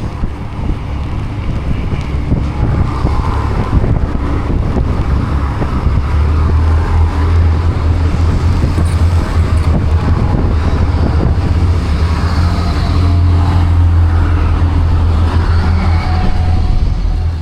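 Road traffic close by: motor vehicles running, with a steady low rumble that grows heavier about six seconds in.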